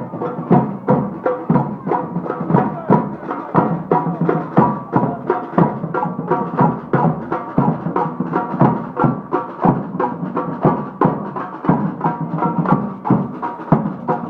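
Procession band playing a march: drums beating a steady rhythm of about three strokes a second, with wind instruments holding a tune over them.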